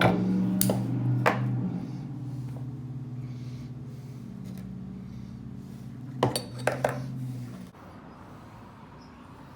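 Several sharp metallic clinks, a few near the start and a cluster about six to seven seconds in, over a steady low hum that weakens and stops suddenly near the end.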